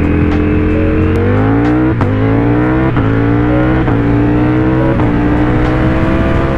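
Motorcycle engine accelerating: its pitch climbs about a second in and is broken by quick gear changes roughly a second apart, then holds steady near the end.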